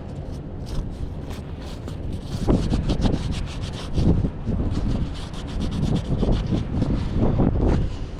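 Wind buffeting an action camera's microphone during an e-bike ride, in uneven gusts, with a run of quick rattling clicks through the middle.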